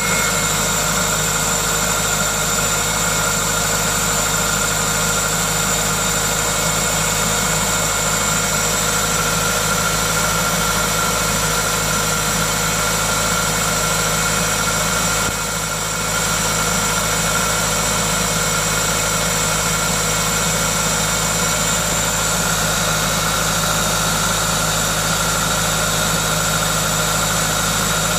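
Toyota 2ZZ-GE 1.8-litre four-cylinder engine idling steadily, with a hiss from its aftermarket induction kit; the owner presents this as the engine's normal noise. The level dips briefly about halfway through.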